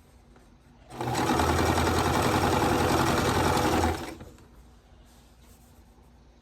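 Sewing machine running a single steady seam for about three seconds, starting about a second in and stopping about four seconds in.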